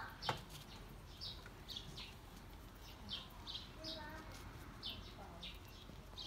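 A small bird chirping over and over in the background: short, high chirps about every half second, faint against a quiet backdrop. A single click comes just after the start.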